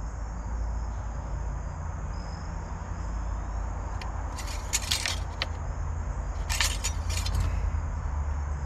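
Crickets chirping steadily over a low steady rumble, with two short bursts of light rattling clicks about four and a half and six and a half seconds in.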